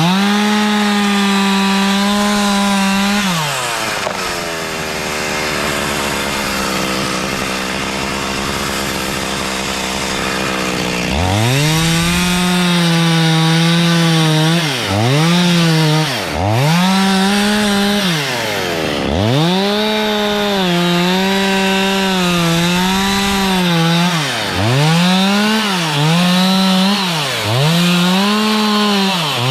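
Two-stroke chainsaw running at high revs, dropping to idle about three seconds in, then revving up again about eleven seconds in and repeatedly sagging and picking back up in pitch as the throttle is worked or the chain is loaded.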